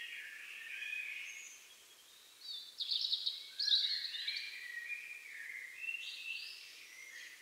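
European robin singing: high, rapidly changing warbled phrases, a short one at the start and a longer, louder run from about two and a half seconds in.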